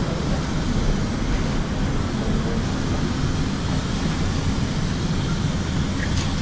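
Steady, loud rumble with a hiss above it, the even noise of running machinery at boarding time, with no distinct events.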